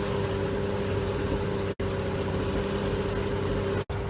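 Small fishing boat's outboard motor running at a steady pitch, with a steady rush of noise over it. The sound drops out briefly twice.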